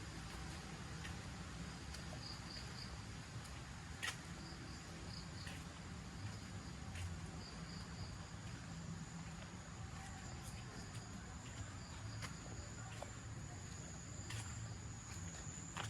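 Insects chirping: short clusters of high chirps that repeat every second or two, joined from about ten seconds in by a steady high-pitched trill. Underneath there is a low rumble and a few sharp clicks.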